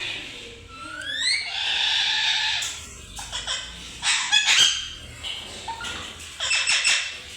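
Pet parrot calling: a rising whistle about a second in, then a harsh screech, followed by short rough squawks around the middle and again near the end.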